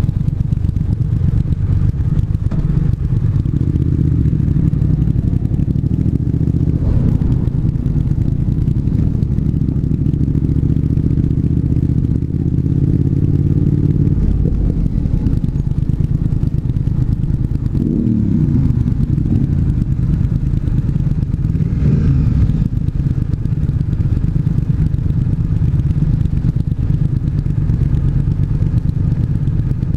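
Triumph 1200 cc parallel-twin motorcycle engine running under way, heard from the bike. The engine note changes about halfway through, then falls in a short downward sweep a few seconds later.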